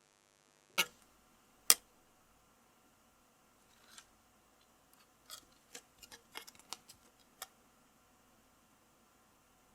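Two sharp clicks, then a quick run of lighter clicks and ticks from small hard keyboard parts being handled during assembly.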